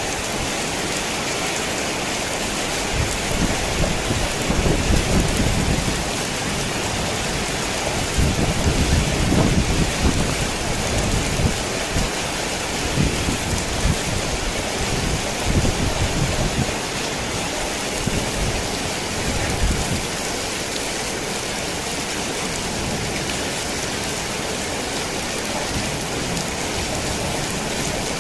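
Heavy rain falling steadily on a worn tin roof. A long roll of thunder rumbles from a few seconds in, swells twice, and dies away after about twenty seconds, leaving only the rain.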